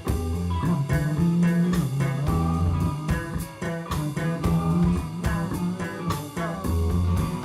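Band playing blues-rock: a guitar line with bent notes over a steady bass line and drums.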